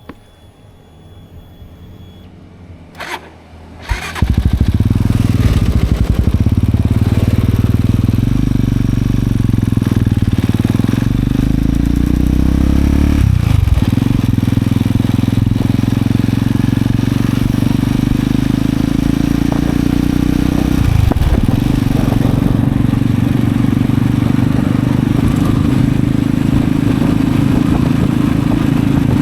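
Kengo Classic 400 motorcycle engine starting about four seconds in, then running steadily through its exhaust. The exhaust note drops briefly twice, once near the middle and again about two-thirds of the way through.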